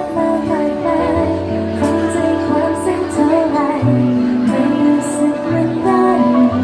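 A slow, tender song with a female voice singing wordless, wavering melodic lines over held chords and a bass line.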